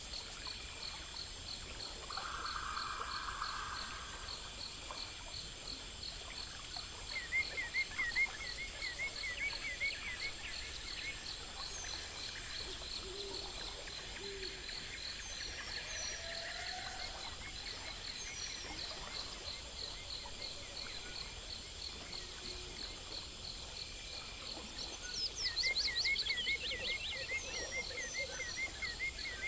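Outdoor nature ambience: a steady high chorus of insects pulsing, with runs of quick repeated chirping calls about a quarter of the way in and again near the end, and a few short gliding calls.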